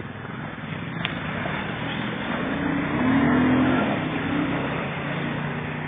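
Off-road vehicle engine revving under load, building to its loudest about three seconds in and then easing off.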